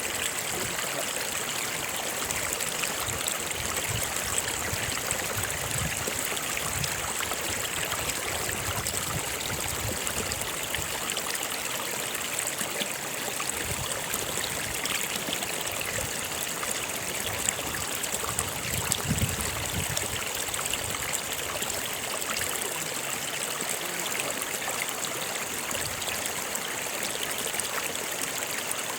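Stream water flowing steadily, an even trickling hiss.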